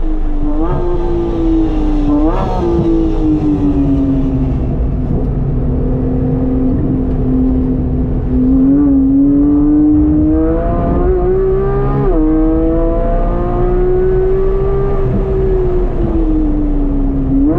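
Porsche 911 GT3's flat-six engine with an aftermarket exhaust (catalytic converters kept), driven hard on track: its pitch climbs and falls with the throttle. There are quick sharp rev spikes in the first few seconds, then a long steady stretch, then a climb that drops off suddenly about two-thirds through, as at a gear change.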